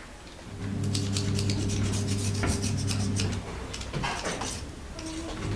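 Small metal clicks, clinks and scraping as a gas stove's brass burner valve is taken apart by hand, with a steady low hum behind them.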